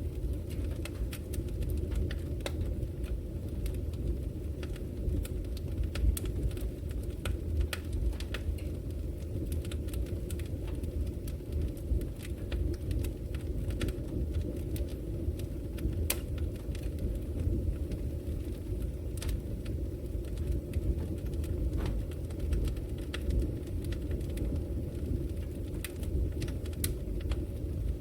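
Wood fire burning in a fireplace, crackling with frequent sharp, irregular pops and snaps over a steady low rumble.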